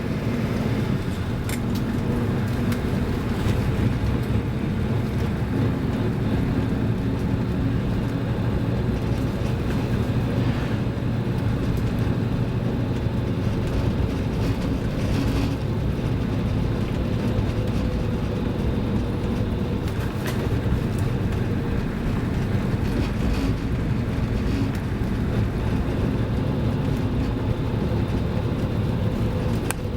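Toyota Land Cruiser HJ60's straight-six diesel engine running steadily at an even speed, with a few faint clicks.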